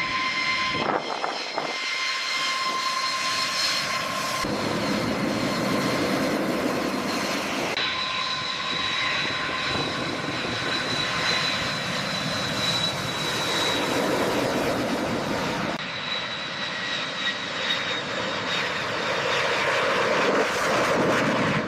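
Aircraft engines running with a steady rushing noise and a high whine. The sound changes abruptly a few times.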